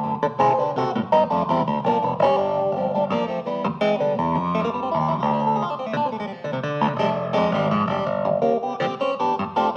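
Hohner Clavinet D6 electric keyboard played: a quick run of short, plucky struck notes and chords over a lower bass line, with the twangy, guitar-like attack of its hammered strings.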